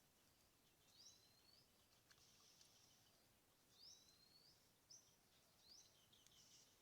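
Faint bird calls, about four of them, each a quick downward flick followed by a short rising whistle, with a faint high buzz between calls.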